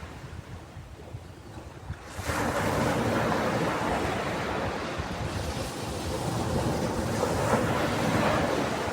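Ocean surf washing on a beach: a quieter lull, then about two seconds in a wave breaks and surges up, its hiss lasting until it falls back near the end.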